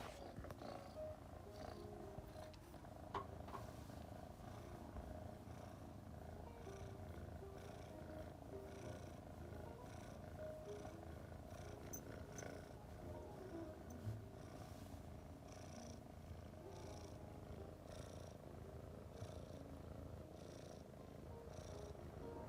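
Domestic cat purring steadily, the purr pulsing with each breath about once a second. A couple of faint clicks come through, one about three seconds in and one about fourteen seconds in.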